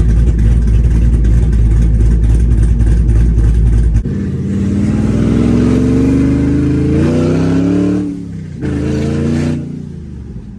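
Supercharged 6.2-litre V8 of a fifth-generation Camaro SS, heard from inside the car. A heavy low rumble fills the first four seconds, then the engine pulls hard with its pitch climbing steadily. A short break comes about eight seconds in, like a gear change, and the pitch climbs again before the driver lifts off and it drops away near the end.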